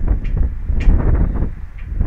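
Wind buffeting the microphone, a heavy gusting rumble, with a few short sharp clicks at irregular moments.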